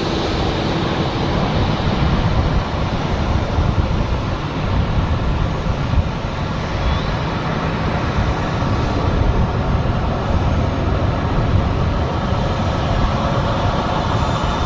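Airbus A340-300 airliner landing: its four jet engines and airflow making a loud, steady, deep rumble with a hiss above it.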